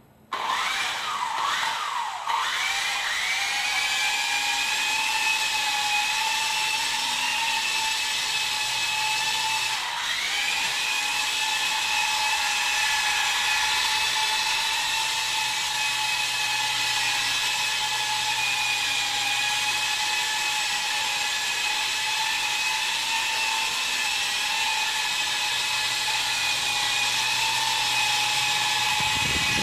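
Small electric motor of a homemade toy helicopter switched on, spinning up with a rising whine within about two seconds and then running at a steady high pitch. About ten seconds in the pitch dips briefly and recovers.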